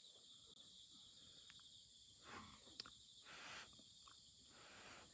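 Faint, steady, high-pitched chirring of insects such as crickets.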